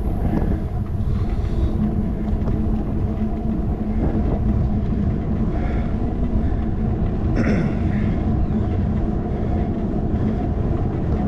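Bicycle riding along with a handlebar-mounted action camera: steady low rumble of wind on the microphone and tyres on the road, with a brief faint higher sound about seven seconds in.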